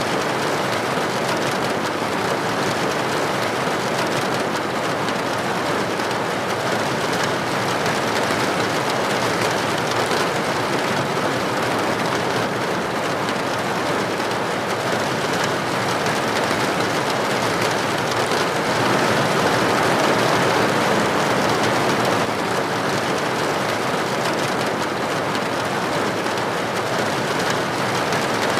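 Steady heavy rain, a dense even hiss of drops falling on a roof or window, swelling slightly about two-thirds of the way through.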